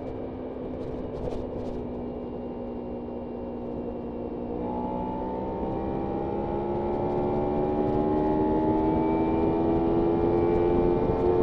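Kawasaki Ninja 300 parallel-twin engine under way, holding fairly steady revs, then from about four seconds in pulling higher with revs climbing slowly and the sound getting louder as the bike accelerates.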